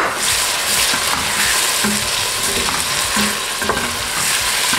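Chopped onions and meat sizzling in hot oil in a stainless steel pot, stirred with a wooden spoon: a steady frying hiss with the spoon working through the pot.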